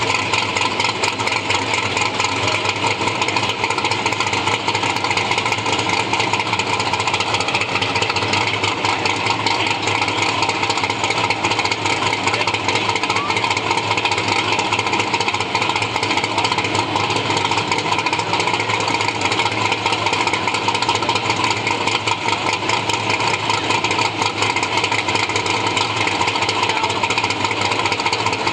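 Modified Chevy II's engine idling steadily and loudly, with no revving.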